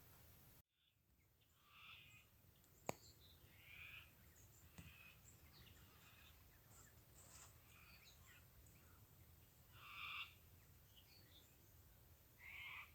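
Faint, scattered bird calls, short and irregular, over an otherwise near-silent bush background, with one sharp click about three seconds in.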